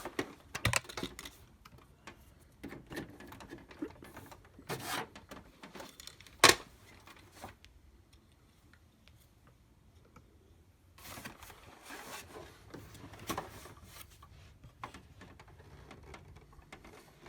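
Scattered clicks, taps and rustles of hands handling a laser printer, with one sharp click about six and a half seconds in.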